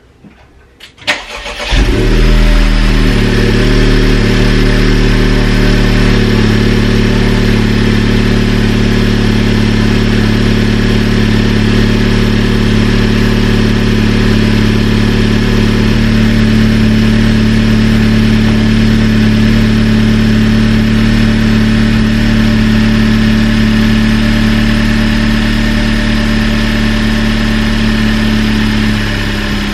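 Honda Civic Type R's 2.0-litre turbocharged four-cylinder, with an AWE Touring exhaust and a K&N drop-in air filter, starting up about two seconds in and then idling steadily at an even pitch. The idle gets a little quieter near the end.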